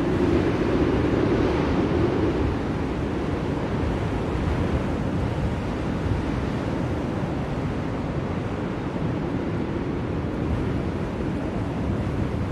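Blizzard wind blowing in a steady rush, swelling in a gust in the first couple of seconds and again more gently later.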